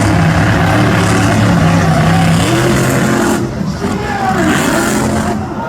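Monster truck engine running loud and revving, its pitch rising and falling in places.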